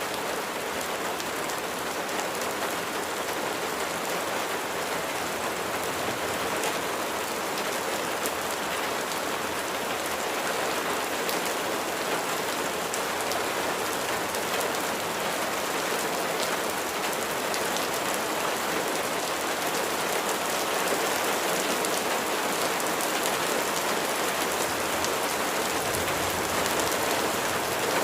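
Steady heavy rain falling on a surface, a dense hiss of drops with fine individual drop patter, swelling slightly louder toward the end.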